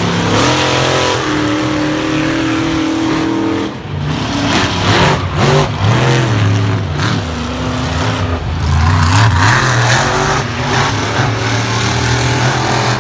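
Monster truck engines racing at full throttle, revving up and down in repeated surges. The pitch drops sharply about four seconds in, then climbs again.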